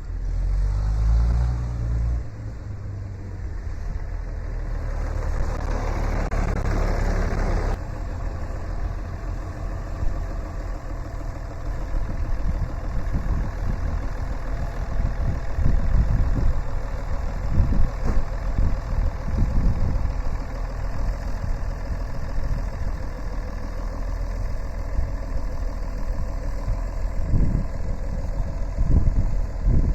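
Farmall 560 tractor engine running at a steady low beat, with a few brief louder pulses in the second half.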